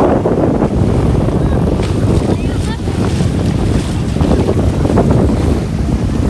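Wind buffeting the microphone over the wash of small waves on the shore, as a steady low rumble. A few faint high chirps come about two and a half seconds in.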